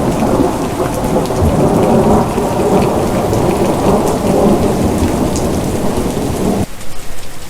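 Steady heavy rain with a deep, rolling rumble underneath that cuts off suddenly near the end, leaving only the hiss and patter of the rain.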